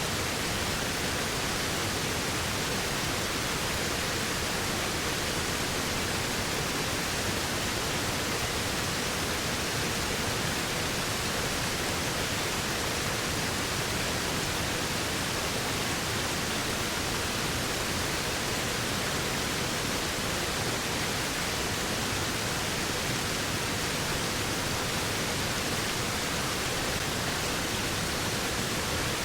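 Waterfall: a steady, unbroken rush of falling water, even hiss-like, with no changes.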